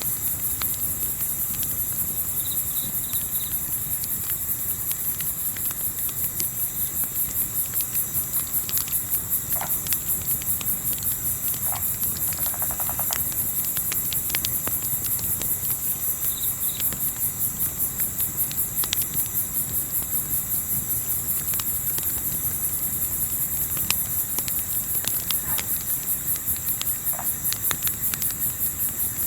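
Crickets chirping steadily in a fast, even pulse, with scattered sharp crackles of a campfire and a low rumble beneath. A few short, high chirps come through about three seconds in and again past the middle.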